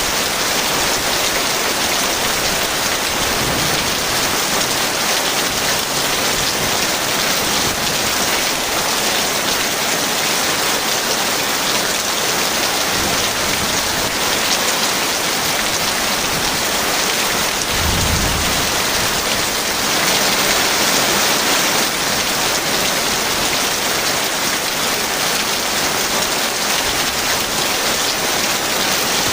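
Heavy rain falling steadily, with a brief low rumble of thunder about two-thirds of the way through.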